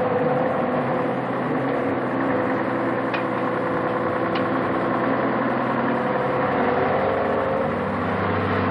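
Volvo truck's diesel engine running steadily.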